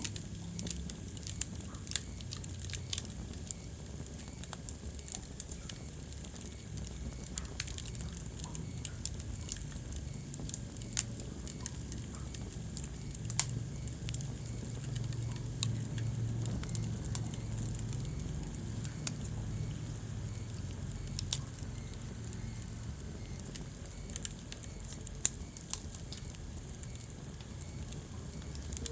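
Wood fire crackling in a fireplace, with irregular sharp pops over a steady low rumble of the flames.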